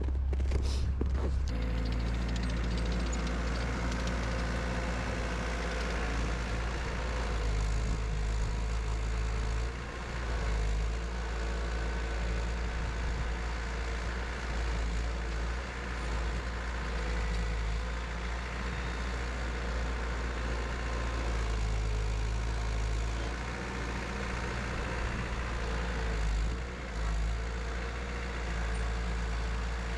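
Diesel engine of a Cat 247 tracked skid steer, a Cat 3034 four-cylinder, running steadily while the machine works a pile. Its note and level dip briefly a few times as the load changes.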